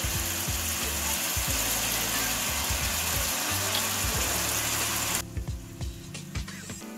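Vegetables and sauce frying in oil in a non-stick wok: a steady sizzle that cuts off suddenly about five seconds in, followed by a few light clicks. Background music with a low beat plays underneath.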